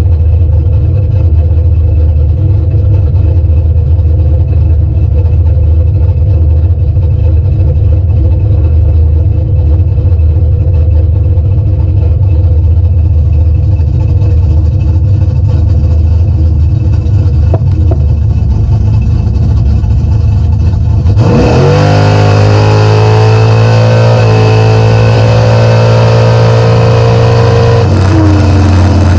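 A 408 cubic-inch V8 in a Fox-body Mustang, running loud and steady at low revs. About two-thirds of the way through it revs up sharply and holds high revs for several seconds, then drops back near the end.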